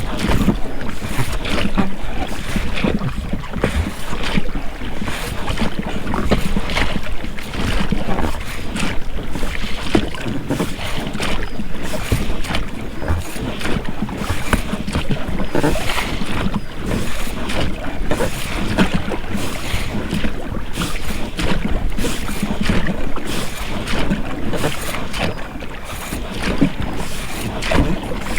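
Oars rowing an inflatable boat: rubber rowlocks creaking and the blades splashing and dripping in the water, stroke after stroke.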